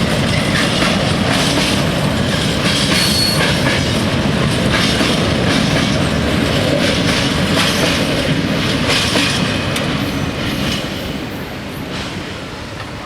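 Freight train wagons rolling past a level crossing, their wheels clicking over the rail joints, with a brief wheel squeal about three seconds in. The noise fades over the last few seconds.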